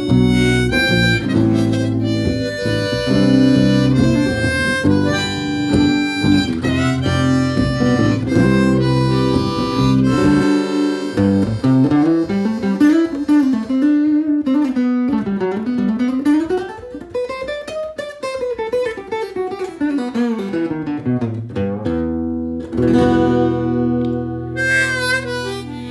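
Blues played on harmonica and acoustic guitar: chords for the first ten seconds or so, then a line that slides up and down in pitch, settling on a held chord that fades near the end.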